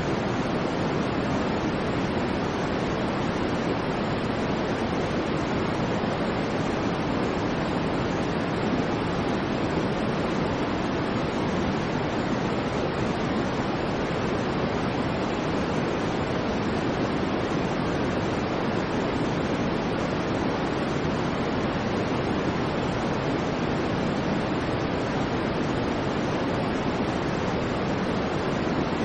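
Steady, unchanging white-noise track: an even rushing hiss, fuller in the low-middle range than in the treble, with no swells, breaks or other sounds.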